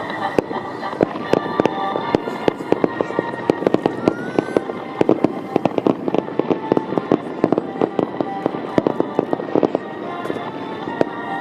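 Fireworks bursting in a rapid, dense run of sharp bangs and crackles that thins out near the end, with music playing underneath throughout.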